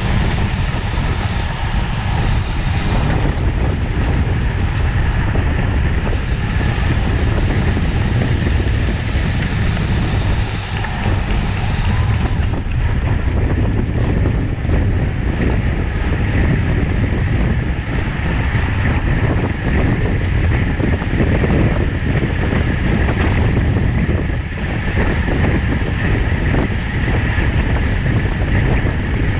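Steady wind rushing and buffeting over the microphone of a camera riding along on a road bike at race speed.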